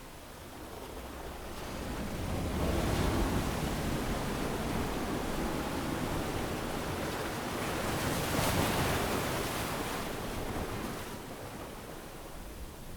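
Ocean waves washing up a sandy beach. A swell builds over the first couple of seconds, a hissing wash peaks past the middle, and then it draws back and fades.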